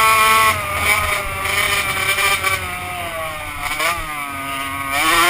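Two-stroke motocross bike engine running high, then dropping in pitch and level about half a second in. It eases lower with a quick blip about four seconds in, then revs up again near the end.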